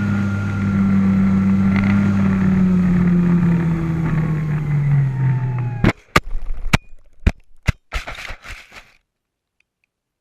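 Carbon Z Cub model plane's motor and propeller running with a steady hum that sinks slightly in pitch. The hum cuts off suddenly about six seconds in, followed by a quick series of sharp knocks and clicks.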